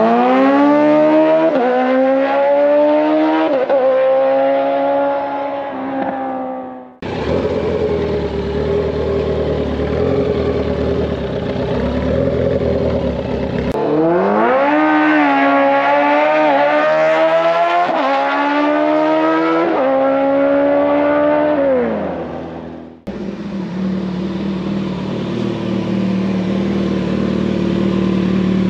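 Sport motorcycles accelerating hard down a drag strip: engine pitch climbs and drops sharply at each upshift, then fades as the bike pulls away. This happens twice, and after each run the sound cuts abruptly to motorcycle engines running steadily at idle.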